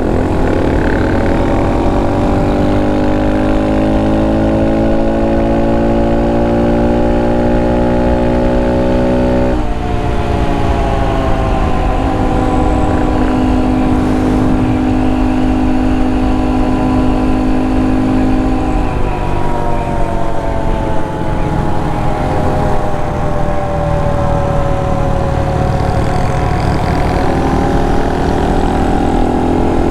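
Honda Monkey 125's single-cylinder four-stroke engine under way, heard on board. The revs climb for about ten seconds and drop sharply with a gear change, then hold steady. Near the end they fall away as the bike slows and begin to climb again.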